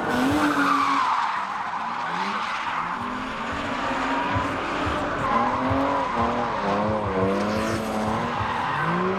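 Drift car sliding with its engine revving hard, pitch swinging up and down again and again, over the hiss and squeal of spinning, skidding tyres.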